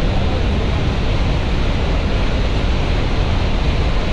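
Steady rushing of water flowing down the canyon, an unbroken even roar.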